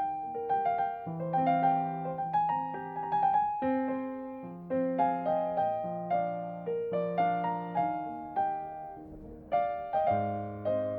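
Background piano music: a gentle, slow keyboard melody of struck notes with chords, each note fading after it is played.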